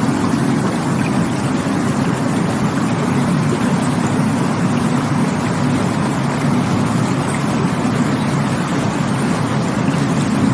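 Rushing water, a loud, steady, unbroken rush with most of its weight low down.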